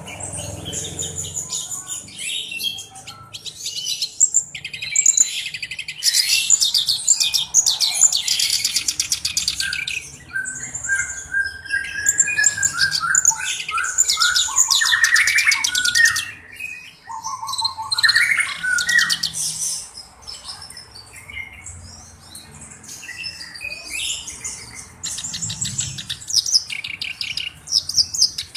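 Black-browed reed warbler singing a long, varied song of fast, harsh chattering phrases and buzzy trills mixed with short whistled notes, in bursts with brief pauses and a quieter stretch near the end.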